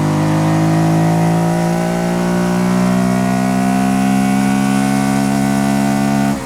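Honda Dax 125's single-cylinder four-stroke engine pulling under acceleration, its note climbing slowly and steadily. Near the end it briefly drops away and comes back at a lower pitch.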